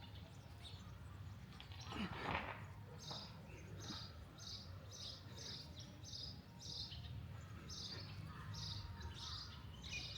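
Small bird repeating a short high chirp over and over, about two notes a second, over a steady low outdoor rumble. A brief louder noise about two seconds in.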